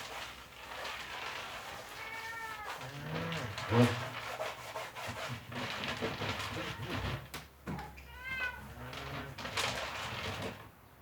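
A domestic cat meowing twice, two short calls that rise and fall in pitch, about two seconds in and again about eight seconds in. A brief loud thump comes about four seconds in, among scattered rustling and knocking.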